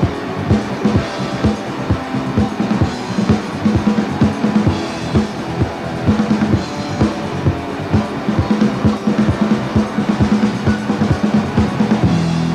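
Rock band playing an instrumental passage: a fast, driving drum-kit beat over a steady bass line and guitar. Right at the end the drumming stops and a held chord rings on.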